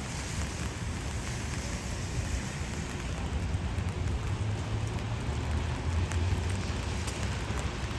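Steady rain falling, with scattered drop ticks, over a low rumble that swells in the middle and second half.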